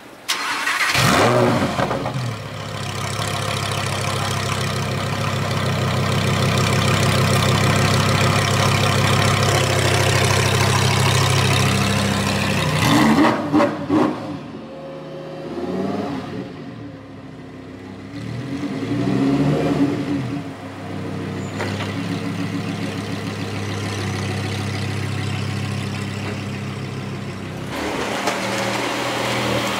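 Lamborghini Huracán Performante's V10 starting with a loud flare about a second in, then settling into a steady idle. Around halfway it gives a few quick blips of the throttle and pulls away, the engine note rising and falling as it accelerates; near the end a different car's engine is running.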